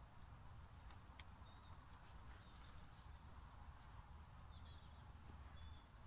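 Near silence with a low rumble, a few light clicks in the first half, and several brief, faint high bird chirps scattered throughout.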